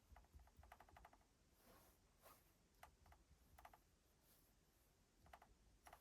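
Near silence with faint clicks of small hard parts being handled. A quick run of about eight clicks comes a little under a second in, and a few single clicks and short pairs follow.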